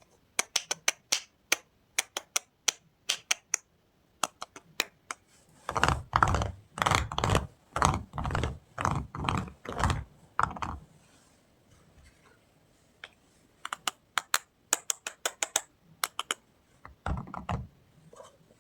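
Hands unboxing soap: runs of crisp clicks and taps on the soap and its packaging, with a stretch of heavier, fuller thuds in the middle.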